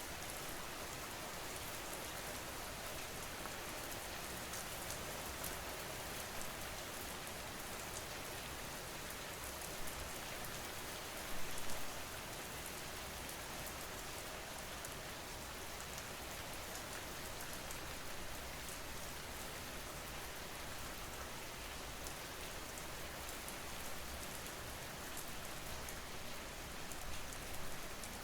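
Steady rain falling, an even hiss of drops on a surface, with a couple of brief louder spatters about ten and eleven seconds in.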